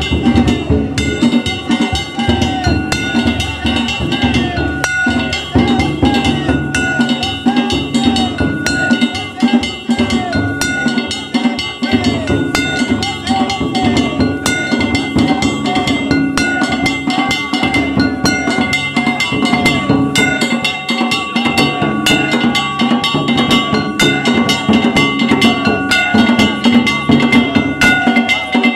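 Danjiri festival float music (danjiri bayashi): a taiko drum and small metal hand gongs (kane) struck in a fast, continuous rhythm, the gongs ringing on between strokes.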